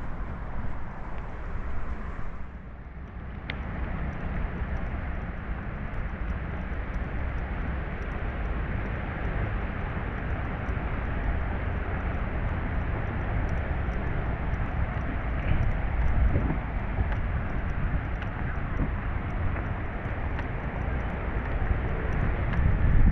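Steady low rumble of outdoor background noise. It dips briefly about two to three seconds in, then slowly grows louder.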